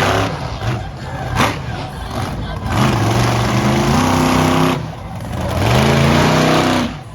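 Monster truck engine revving hard twice: each time the pitch climbs, holds for a second or two, then drops away.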